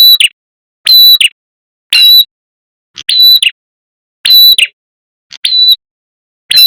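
Looped lure recording of a red-headed prenjak's call, played loud: a short, sharp, high call repeated about once a second, six times.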